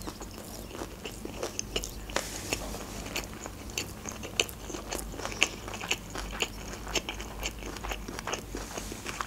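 A person chewing a mouthful of sushi roll close to the microphone, with small irregular mouth clicks and crunches a few times a second.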